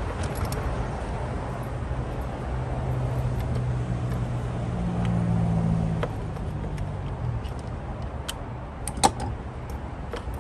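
Light metallic clinks and taps of hand tools, socket and extension, in an engine bay, with one sharper click about nine seconds in. Under them a steady low vehicle engine hum swells in the middle and fades.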